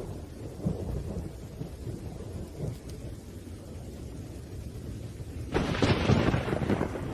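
Thunderstorm: low rolling thunder rumbling over steady rain, with a sudden louder crack of thunder about five and a half seconds in that lasts over a second.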